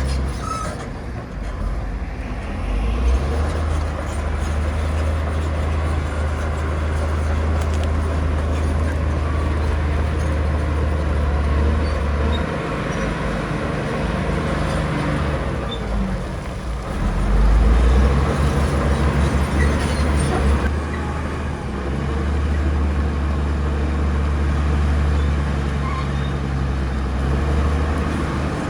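Heavy diesel engine of earthmoving machinery running with a deep, steady note. The note drops away about halfway through, picks up strongly a few seconds later, then runs steady again.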